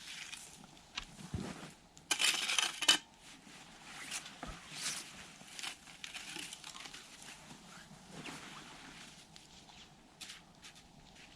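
Camp gear being handled: scattered clinks and rustles, with one loud metallic rattle about two seconds in that lasts under a second.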